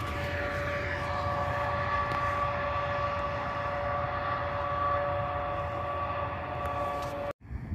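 Electric train running with a steady whine of several tones over a low rumble; it cuts off abruptly near the end.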